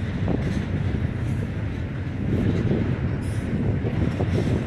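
Double-stack intermodal freight train's cars rolling past, a steady low rumble of steel wheels on the rails.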